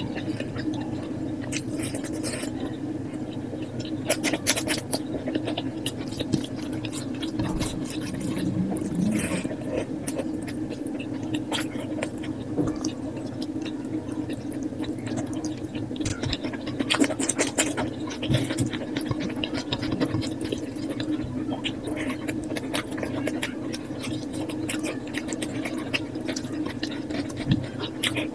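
Eating sounds sped up to double speed: chewing and wet squishing of curry and rice, with many quick clicks and smacks over a steady low hum.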